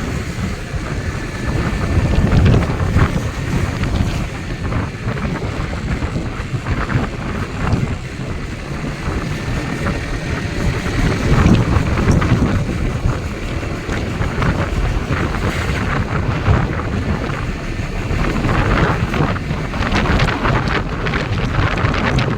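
Strong wind buffeting the microphone: a loud, gusty noise heaviest in the low end, rising and falling throughout.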